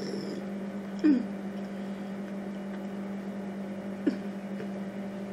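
A person chewing a mouthful of bacon cheeseburger. There is a short, sharp mouth sound about a second in and a smaller one about four seconds in, over a steady low hum.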